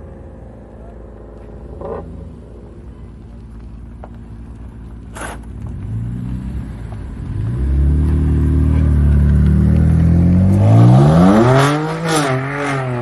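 A sports car's engine drawing near and pulling away: a low drone at first, growing into a deep rumble, then revving up in one sharp rising sweep about two-thirds of the way through before settling back and pulling on. Two short sharp clicks sound in the quieter first part.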